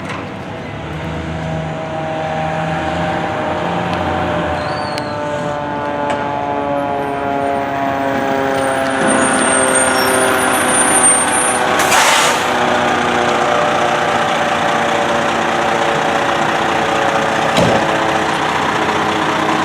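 Fire engine running as it drives, its engine drone growing gradually louder with slowly shifting pitch. A short hiss comes about twelve seconds in.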